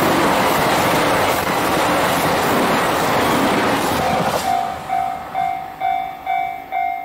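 JR Hokkaido 261 series diesel limited express train passing close by with a loud, steady rush of wheel and running noise. As it clears about four seconds in, the level crossing warning bell is left ringing on its own, about two and a half strikes a second.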